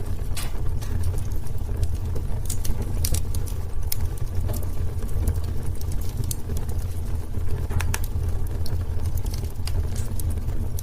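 Wood fire crackling in a fireplace: irregular sharp pops and snaps from the burning wood over a steady low rumble.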